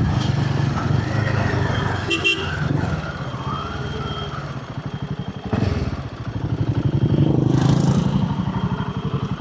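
Royal Enfield Himalayan 450's single-cylinder engine running on the move, its loudness dropping off around the middle and building again later on. A brief high beep sounds about two seconds in.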